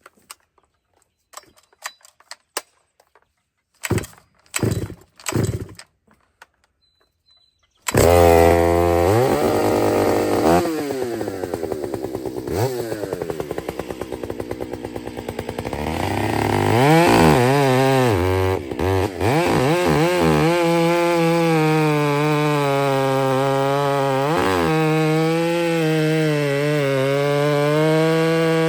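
Stihl MS 660 two-stroke chainsaw with an aftermarket West Coast Saw exhaust. After a few sharp knocks, it starts abruptly about eight seconds in, revs up and down repeatedly, then runs steadily at high speed from about twenty seconds in. It is unported, with only the exhaust and an air filter changed.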